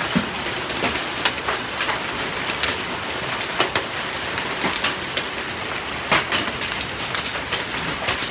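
Heavy hailstorm: a dense, loud clatter of hailstones pelting down, with frequent sharp cracks from individual stones striking at irregular moments.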